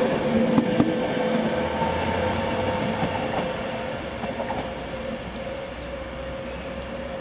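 Virgin Trains Class 390 Pendolino electric train passing close at speed: wheels clicking over rail joints in the first second, a steady electric whine, and the sound fading as the train goes by, with a low rumble underneath from about a second and a half in.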